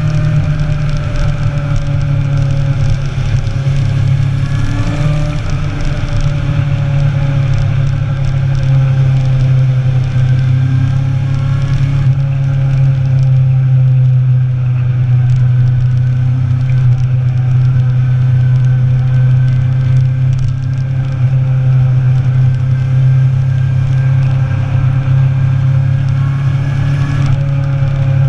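Motorcycle engine running at fairly steady revs while riding, its pitch drifting only slightly up and down.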